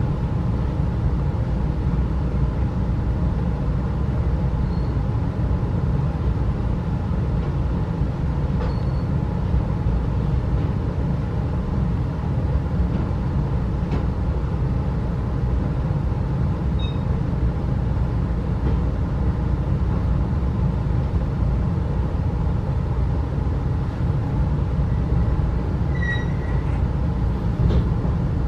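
Steady low rumble of a 35-series passenger coach rolling along the track, heard from inside the car, with a brief faint high squeak near the end.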